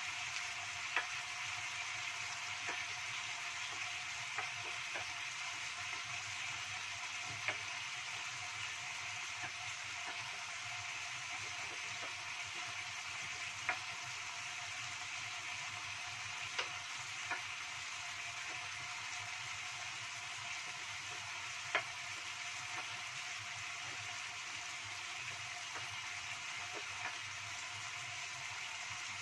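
Stingray pieces sizzling in a wok of spicy sauce: a steady sizzle with a few sharp clicks or pops scattered through it.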